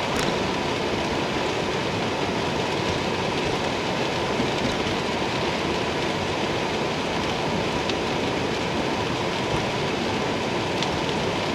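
Heavy freezing rain falling steadily, a dense even hiss with no letup.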